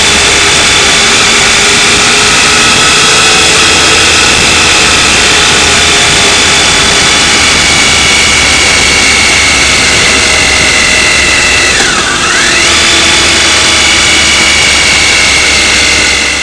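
Motorcycle engine running at a steady speed over a dense rush of noise. About twelve seconds in, the engine's pitch drops sharply and climbs straight back within about a second.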